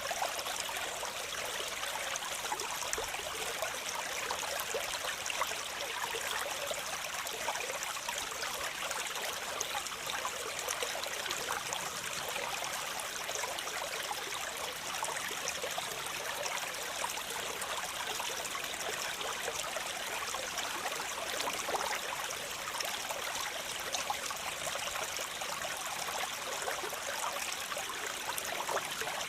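Waterfall: a steady, unbroken rush of falling and splashing water, hissy and bright with little deep rumble.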